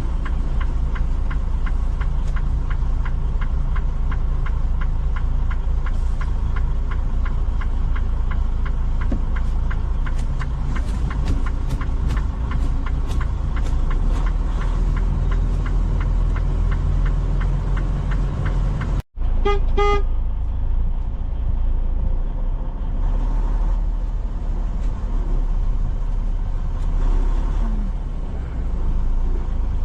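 Semi truck's diesel engine running steadily, heard from the cab, with a fast run of regular clicks through the middle. After a short break about two-thirds through, there is a brief horn toot.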